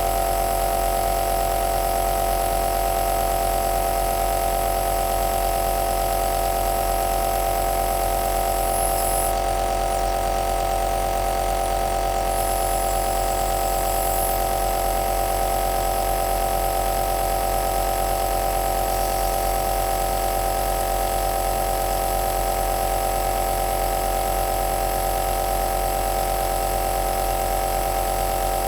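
Electric compressor nebulizer running continuously: a steady motor hum with a strong constant tone and a hiss, unchanging throughout.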